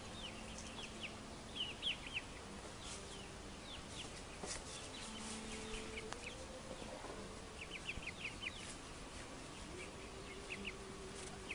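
Birds chirping faintly in quick runs of short, high, falling notes, several runs in all, over a faint low hum that comes and goes.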